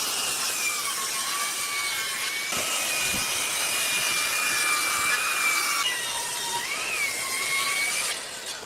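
Woodworking power tool cutting wood: a steady high-pitched whine over a noisy cutting rush, its pitch wavering with the load. The sound changes abruptly twice, about two and a half and six seconds in, and fades near the end.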